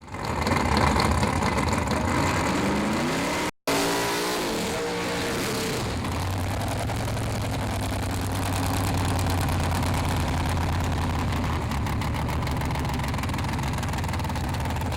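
Drag race car engine revving with rising pitch, cut briefly about three and a half seconds in, then from about six seconds running steadily at a low drone.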